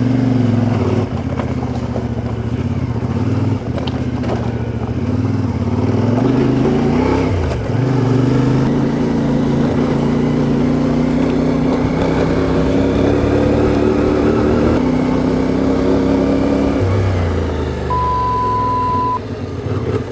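CFMOTO 450MT parallel-twin engine running under way, its pitch rising and falling with the throttle and dropping as the bike slows near the end. A brief steady beep sounds near the end.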